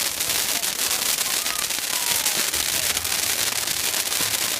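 Large bonfire burning, a dense, steady crackle of many small pops, with crowd voices faint behind it.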